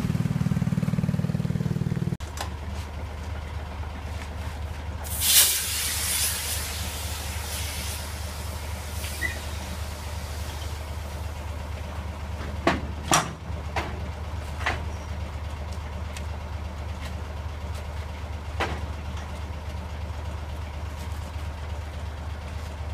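Ten-wheel dump truck's diesel engine running, then settling to a steady idle about two seconds in. About five seconds in there is a loud hiss of released air lasting about a second, and later a few sharp clicks or knocks.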